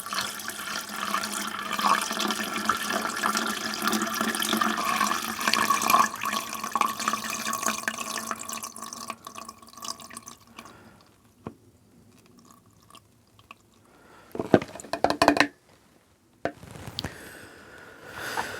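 Water being poured into a vintage car radiator as it fills to the top, running and splashing steadily until it stops about ten seconds in. A few short knocks follow a few seconds later.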